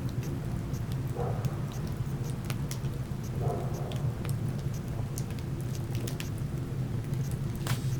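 Burning wood crackling in a fireplace: irregular sharp pops and snaps over a steady low rumble, with a louder pop near the end.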